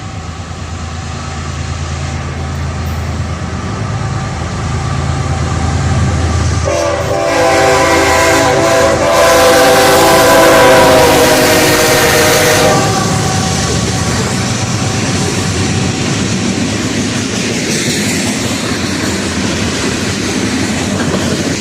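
Diesel freight locomotives approaching with a deep engine rumble, then an air horn sounding one long chord for about six seconds at the loudest point. The steady rolling clatter of freight cars passing follows.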